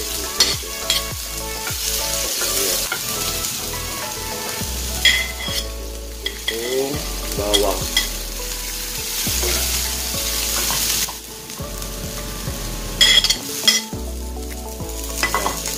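Chopped onion and garlic sizzling in hot cooking oil in a frying pan, stirred with a metal ladle that scrapes and clinks against the pan, with a few sharp clinks a little before the end as ginger strips go in.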